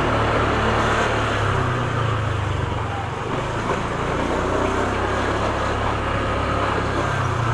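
Motorcycle engine running steadily while riding, with wind and road noise and surrounding traffic.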